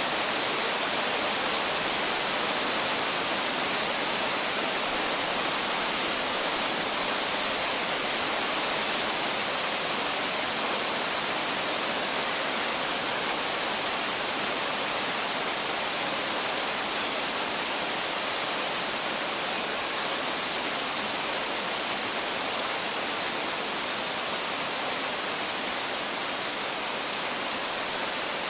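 Steady rushing roar of a tiered mountain waterfall, water falling continuously over several rock steps.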